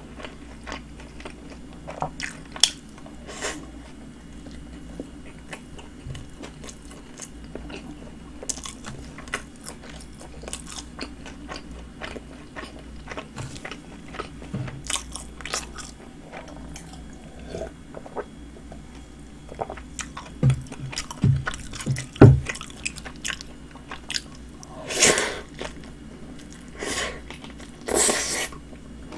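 A person chewing a Subway ham and roast beef sandwich on flatbread: many small clicks and wet mouth sounds, with a few louder bites and smacks in the last ten seconds.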